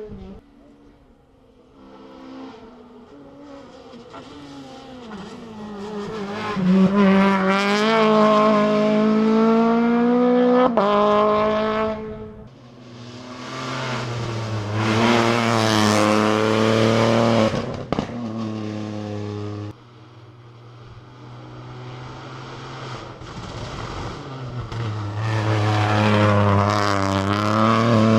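Rally cars at full throttle on a sprint stage, engines climbing in pitch and dropping back at each gear change as they approach and pass, three cars in turn. The first two cut off suddenly, and tyres squeal at times.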